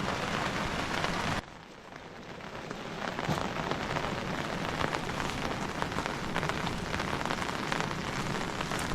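Rain falling, a dense patter of drops. About a second and a half in, the level drops suddenly and then slowly builds back up to a steady downpour.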